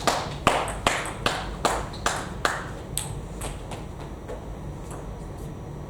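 Celluloid-type table tennis ball clicking off bats and table in quick, evenly spaced strokes, about two and a half a second. The strokes fade out after about three seconds, leaving a few faint scattered clicks.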